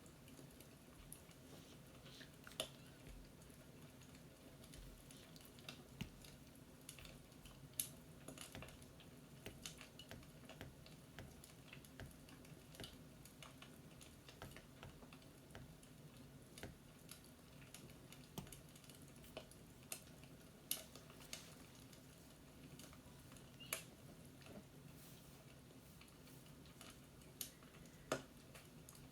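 Faint, irregular sharp clicks and crackles, a couple of dozen in all, scattered over a low steady hum.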